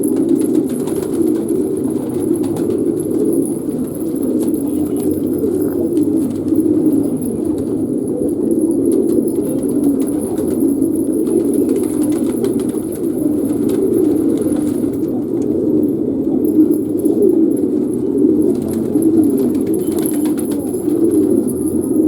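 Many pigeons cooing at once, their overlapping low coos merging into a continuous chorus.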